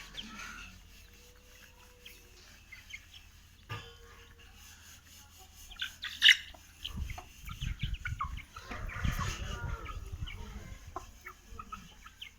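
Parrot-beak Aseel chickens and chicks clucking and peeping in short scattered calls. About six seconds in there is a single sharp click or knock, followed by a few seconds of low rumbling handling noise.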